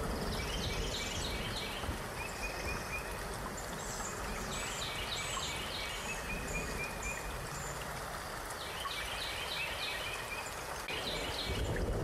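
Steady rain-like hiss with a songbird singing short phrases of quick chirps about four times.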